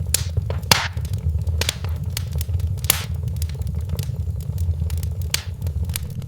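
Wood fire in a fireplace crackling, with irregular sharp pops, the loudest about a second in and near three seconds, over a steady low rumble.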